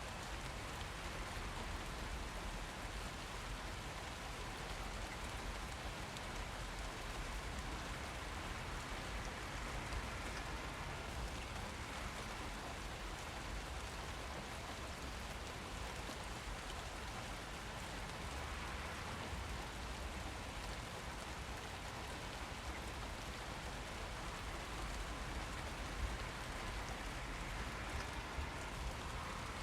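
Steady rain falling on surfaces, an even patter with a few slightly louder drops near the end.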